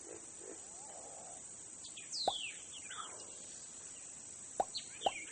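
Faint riverside ambience of single water drops plopping, a few at a time, with a high whistled call that falls in pitch about two seconds in.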